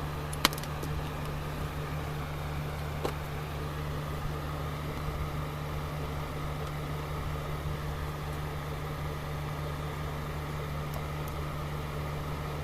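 A steady low electrical hum, with a sharp click about half a second in and a fainter click about three seconds in.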